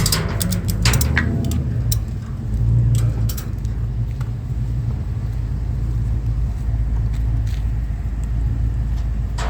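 Chevrolet C10 truck's LS6 V8 idling with a steady low rumble, swelling briefly about three seconds in. A few sharp clicks sound in the first second or so.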